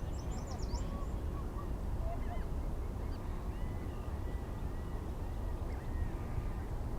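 Birds calling: scattered short chirps and honk-like calls, over a steady low rumble.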